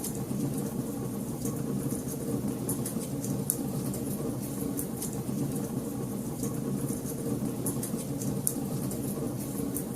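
Fire burning in a fireplace: a steady low rumble of flames with frequent small, sharp crackles and pops scattered throughout.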